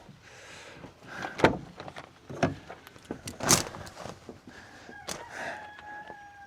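A series of wooden knocks and clatters about a second apart, with a drawn-out squeal over the last second and a half.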